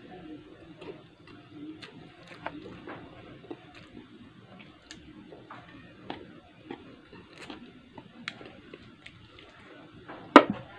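Close-miked eating sounds: chewing with soft mouth smacks and many small, irregular clicks. About ten seconds in comes one loud, sharp hit.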